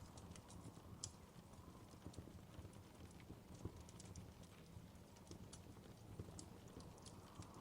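Wood fire in a fireplace crackling faintly, with irregular sharp pops and ticks over a low steady rumble.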